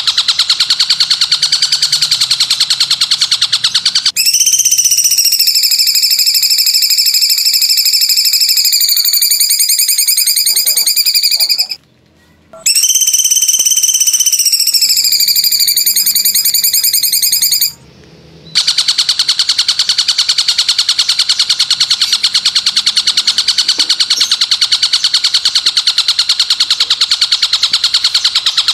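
Recorded masteran calls played for training songbirds. A rapid, fast-pulsing high trill gives way after about four seconds to a long, piercing whistle with several overtones that falls slightly in pitch. The whistle breaks off briefly twice, and the pulsing trill then resumes.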